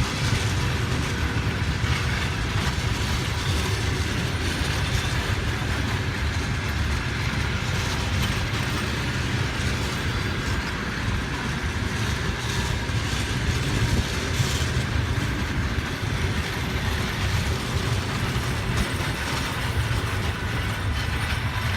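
Passenger train departing, its carriages rolling past with a steady rumble of wheels on the rails.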